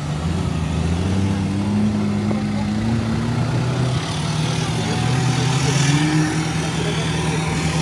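Off-road 4x4 vehicle's engine running at low revs, its pitch rising gently twice, about a second in and again near six seconds.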